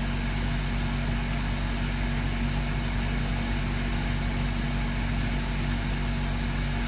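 Parked car running at idle, heard from inside the cabin: a steady hum with a few low, even tones that does not change.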